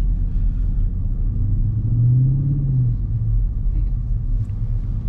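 Dodge Charger Scat Pack's 6.4-litre HEMI V8 running at low revs under a low rumble while driving, with a brief, slight rise in revs about two seconds in.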